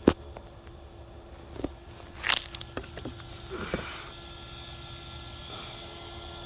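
Handling noise on a camera rig: a sharp click, then a short run of small knocks and scrapes. About four seconds in, a steady high whine sets in, typical of the small cooling fan clipped to the GoPro heard close up.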